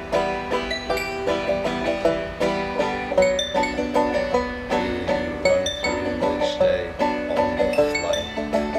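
Instrumental passage of an acoustic banjo-and-piano song: a banjo picks quick, steady runs of notes over piano chords.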